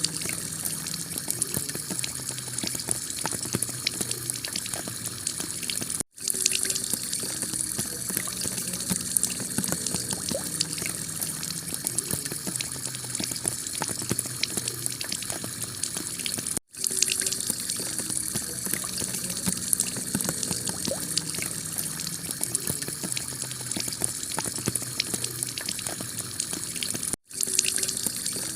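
Heavy rain falling on a clay-tile roof, a steady dense patter of drops with water running. The sound cuts out for an instant three times, about every ten seconds.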